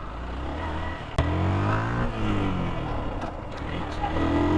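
Motorcycle engine running under way, its pitch rising and falling as the throttle changes, with a sharp click about a second in.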